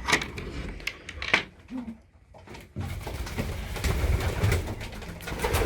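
Young racing pigeons cooing inside a loft, with scattered sharp clicks and knocks for the first three seconds before the cooing thickens into a steady murmur.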